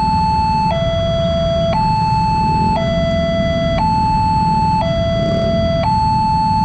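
Electronic railway level-crossing alarm sounding its two-tone warning, a higher and a lower tone alternating about once a second, over a steady low rumble. The alarm signals that a train is approaching and the crossing is closing.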